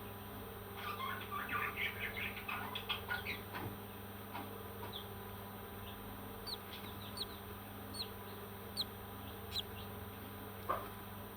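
Parrot calling: a burst of rapid chattering for about three seconds, then scattered short, sharp chirps that drop in pitch, over a steady background hum.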